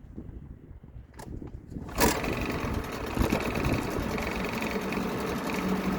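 1975 Mercury 7.5 hp two-stroke outboard being pull-started: it catches on the first pull about two seconds in and settles into steady running.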